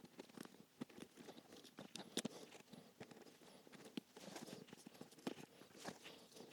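Faint, irregular scraping and ticking of a hand tool prying old cork filler out of the bottom of a leather shoe.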